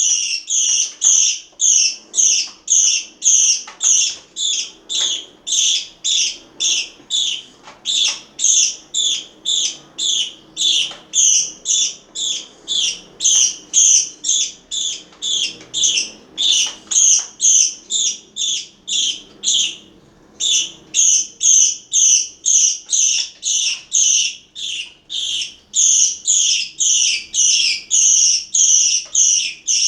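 Parakeets calling: a fast, unbroken series of shrill, high chirps, about two to three a second, that breaks off briefly about two-thirds of the way through.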